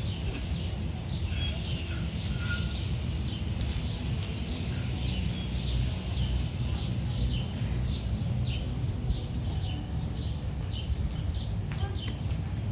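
Small birds chirping over and over, short quick chirps that drop in pitch, over a steady low rumble.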